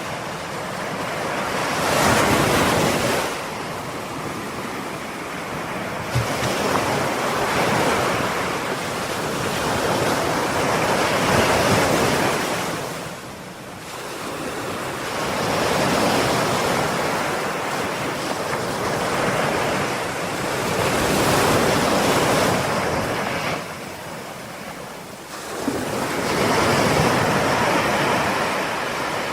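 Ocean waves breaking and washing up the shore, swelling and ebbing in slow surges every several seconds, with some wind on the microphone.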